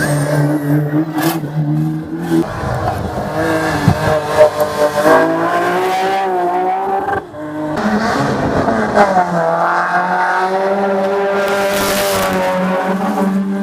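Race car engine at full throttle on a hill climb, its note climbing repeatedly as it accelerates, with a brief drop about seven seconds in before it climbs again.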